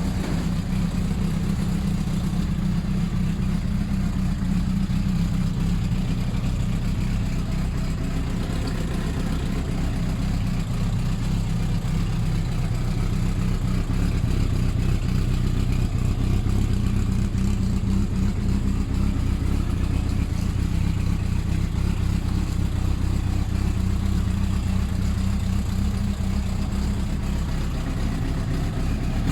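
1994 Honda CBR1000F's inline-four engine idling steadily through an aftermarket Black Widow exhaust, with a deep, even note.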